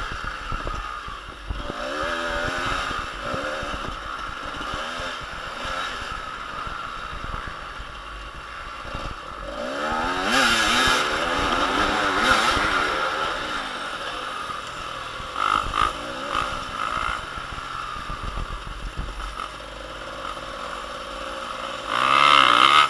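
Motocross motorcycle engines revving as the bikes ride, the pitch climbing and dropping again and again through gear changes, loudest about ten to thirteen seconds in.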